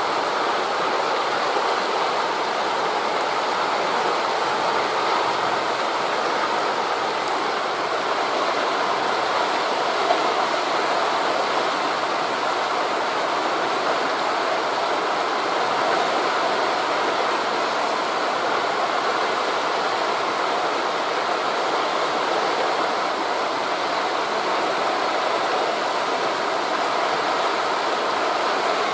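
Steady rushing of wind through forest leaves blended with waves breaking on a beach, an even wash of noise without distinct events.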